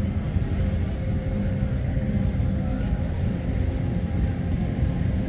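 Steady low rumble with a faint constant hum, no distinct events.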